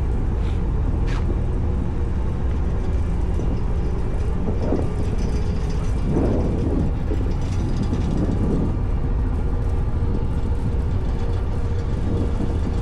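Ferry's engines droning steadily under way, a constant low rumble with a faint steady hum above it and a wash of wind and water noise.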